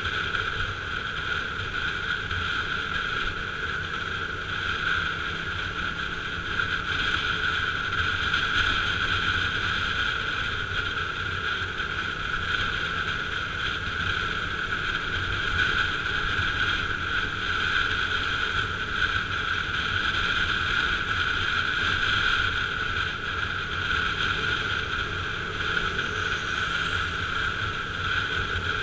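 KTM RC 200 motorcycle's single-cylinder engine running at a steady cruise while riding, with wind and road noise on the microphone.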